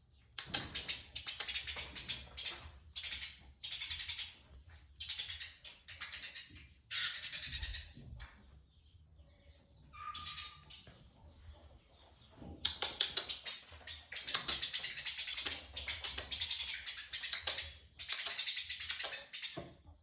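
Long-tailed shrike (cendet) chattering in rapid, high-pitched bursts of about a second each, separated by short gaps, in imitation of fighting house sparrows. The singing eases off for a few seconds near the middle, with one short whistle, then resumes.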